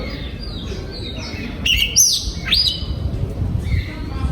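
Oriental magpie-robin singing: a string of clear whistled notes and quick sweeping phrases, loudest about two seconds in, over a low background rumble.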